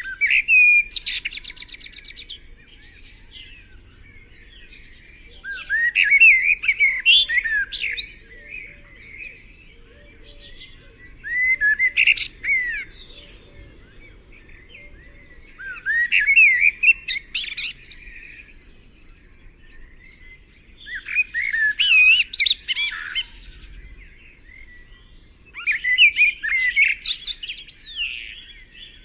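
A songbird singing: six short, quickly warbling phrases, one about every five seconds, with a faint low background rumble between them.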